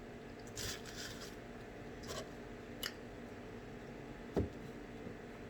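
Faint crunching of snack-mix chips being chewed, in a few short bursts, with soft clicks and a low thump about four seconds in.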